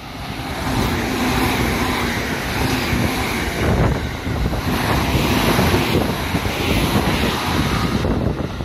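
JR West 221 series electric train passing through the station at speed: a loud rush of wheels on rail and air that builds over the first second and then holds, with a low steady hum in the first few seconds.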